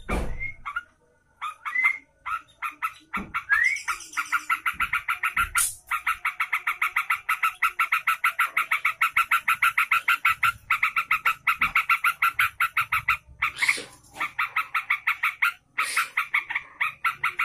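Yellow-vented bulbul (trucukan) singing: a few short call notes, then a long fast run of repeated chattering notes, several a second, with a few brief pauses.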